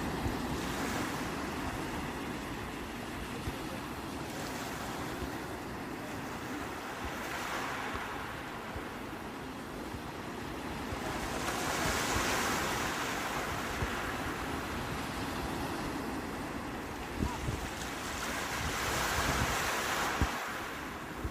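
Sea waves breaking and washing on the shore, the surf swelling and falling back every few seconds, with louder breakers twice in the second half. Wind buffets the microphone with a low rumble.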